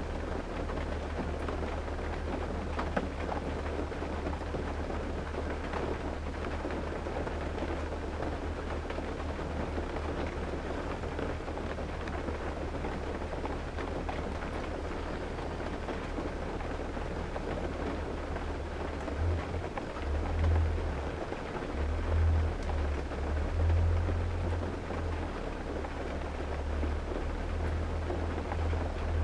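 Rain falling on a vintage car's body and glass, heard from inside the closed cabin as a steady even patter. A deep low rumble runs underneath and swells in several surges in the second half.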